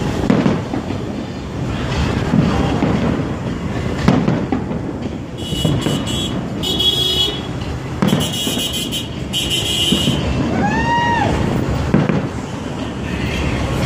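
Aerial fireworks bursting overhead, a deep boom every couple of seconds, over a steady low din of street traffic. A short tone that rises and falls sounds about eleven seconds in.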